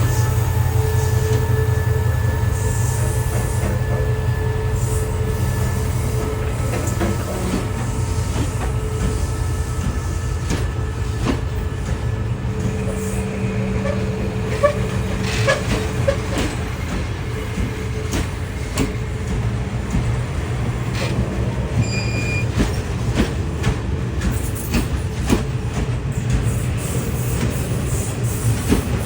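Diesel train on the track: the locomotive's engine gives a steady low rumble while the wheels and cars click and knock throughout, with a short high wheel squeal about 22 seconds in.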